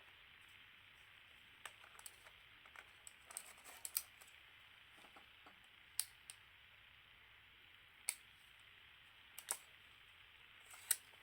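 Scattered light clicks and taps of small tools and parts being handled during a camera teardown, a few every couple of seconds, with the sharpest about four and six seconds in.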